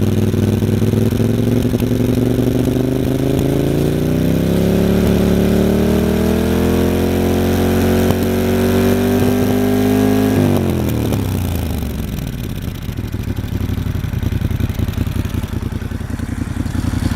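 Moto Guzzi Stelvio's transverse V-twin running through a GPR Gisa aftermarket exhaust: the revs climb slowly and are held up for several seconds, then drop sharply about ten seconds in and settle back to a lumpy idle.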